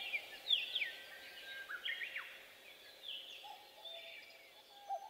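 Birds chirping faintly in short calls that fall in pitch, with a few lower calls in between.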